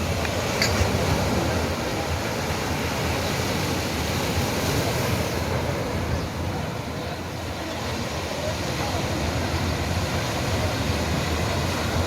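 Atlantic Ocean surf washing steadily onto the beach, with low wind rumble on the microphone.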